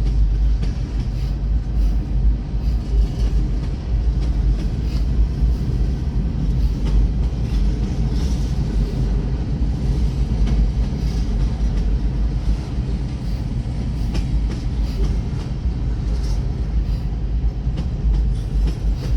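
Freight train rolling past at a crossing: a steady, heavy low rumble of the cars on the rails, with scattered wheel clicks over the rail joints.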